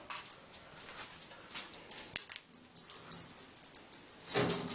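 Scattered light clicks and taps, with one sharp click about two seconds in: an Indian ringneck parrot handling and dropping a small toy.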